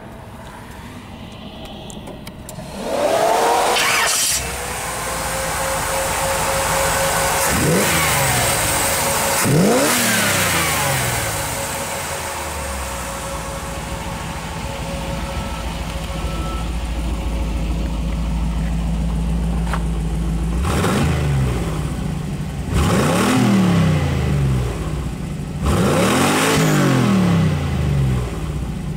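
A 1957 Chevrolet Bel Air's 350 cubic-inch GM crate V8 with a four-barrel carburetor idling and being blipped about six times, each rev rising and falling back to idle: once about three seconds in, twice around eight to ten seconds, and three times near the end.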